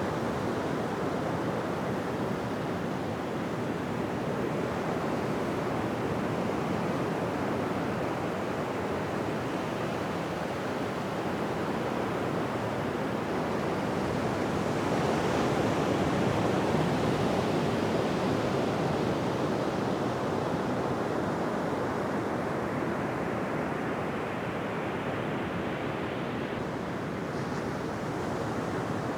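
Ocean surf washing on a beach: a steady hiss of breaking waves that swells to its loudest about halfway through, as a wave breaks, then slowly ebbs.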